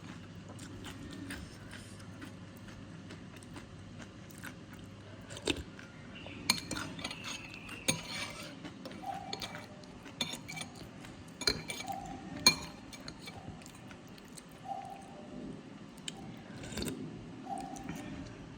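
A spoon clinking against a bowl of soto mie noodle soup while someone eats, in scattered sharp taps. The sharpest tap comes about twelve seconds in.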